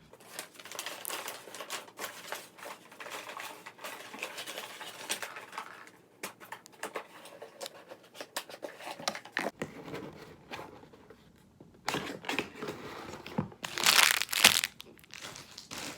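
Plastic snack wrappers crinkling and rustling as packaged snacks are handled and put back in a box, with a louder burst of crackling plastic near the end.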